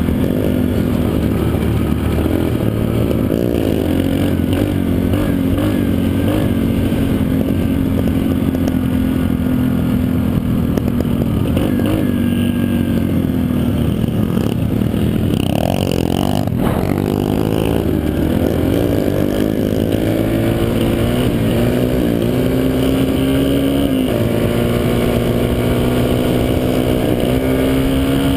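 Dirt bike engine running under throttle on a trail, its note rising and falling as the rider opens and closes the throttle, with a sharp knock about sixteen seconds in.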